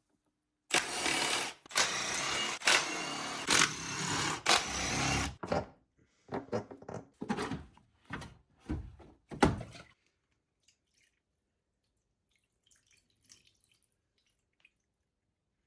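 Workshop tool noise: a few seconds of dense clattering and rattling, then a string of separate knocks, after which it goes nearly quiet.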